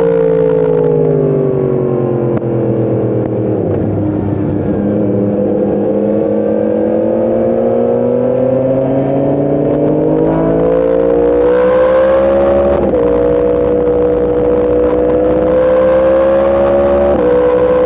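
Yamaha MT-10 motorcycle engine heard on board. The engine note falls over the first few seconds, then pulls steadily higher under acceleration, with quick upshifts about 13 and 17 seconds in.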